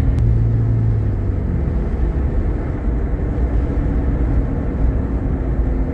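Car driving along, with a steady low rumble of road and engine noise inside the cabin and a low hum that fades out about a second and a half in.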